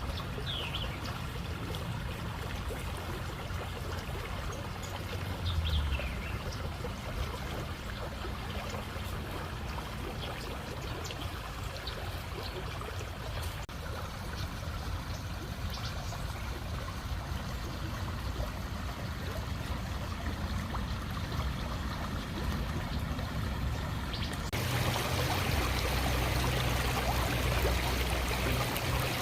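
Creek water trickling and flowing over rocks in a steady rush. About 24 seconds in, the rush suddenly gets louder and brighter.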